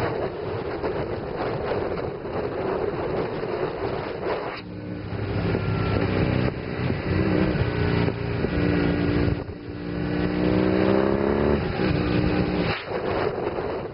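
Motorcycle engine running at road speed with heavy wind noise on the microphone. A few seconds in, the engine note comes through clearly and climbs in pitch as the bike accelerates. It drops briefly around two-thirds of the way through, as at a gear change, then rises again before the wind noise returns near the end.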